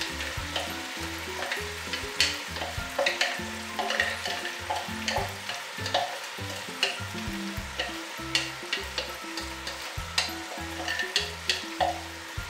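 Pork cheeks and chopped onion and garlic sizzling in hot oil in a pot, with frequent sharp taps of a utensil knocking the onion and garlic out of a container into the pot.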